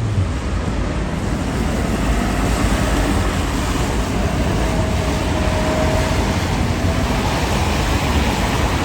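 City street traffic: a steady rush of passing vehicles, with a faint whine between about four and seven seconds in.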